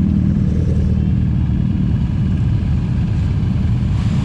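Motorcycle engine running steadily under way, a dense, even low rumble.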